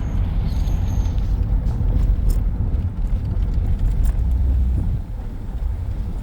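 Car driving along a road, heard from inside the cabin: a steady low rumble of engine and road noise, with a few faint ticks.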